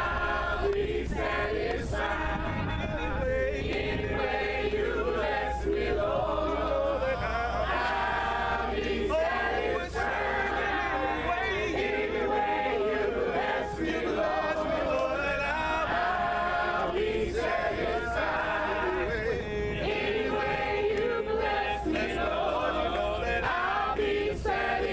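Unaccompanied group of voices singing a gospel song in harmony, a cappella.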